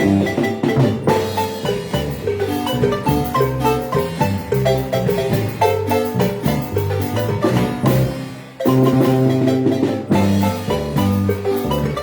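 Marimba ensemble playing a lively tune, fast mallet notes over a bass line; the sound dips briefly a little before the 9-second mark, then comes back in at full level.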